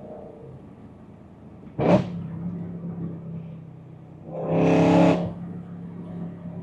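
BMW E92 M3's S65 V8 through a titanium exhaust, heard from inside the cabin: the engine runs at a steady low note, with a sharp, very short bark about two seconds in and a louder throttle blip of under a second about four and a half seconds in, typical of a rev-matched downshift.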